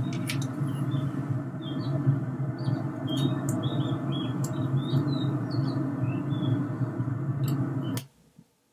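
Small birds chirping in short, scattered calls over a steady low rumble. A few sharp clicks, and the sound cuts off suddenly about eight seconds in.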